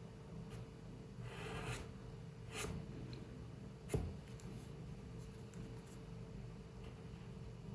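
Pencil scratching on paper in a few short drawing strokes, then a sharp tap about four seconds in, over a faint steady hum of the room.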